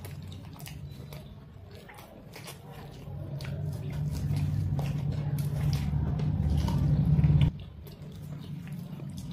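Close-miked chewing and mouth sounds of people eating soft puri with paneer gravy, with scattered small smacks and clicks. Under them, a low hum swells from about three seconds in and cuts off suddenly about seven and a half seconds in.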